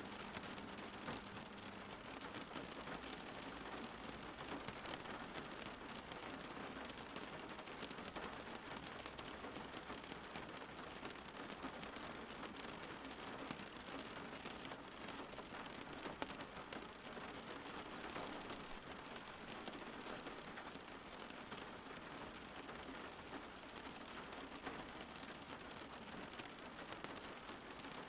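Steady rain falling and pattering on a surface, a continuous even hiss with many small drop ticks.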